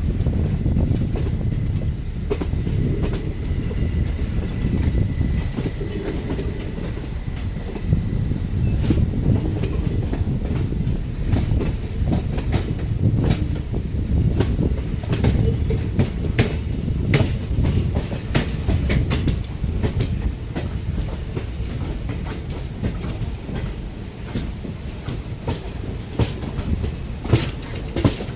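Sleeper-coach passenger train running along the line: a steady low rumble of wheels on rail, with clickety-clack of the wheels over rail joints coming in irregular clicks.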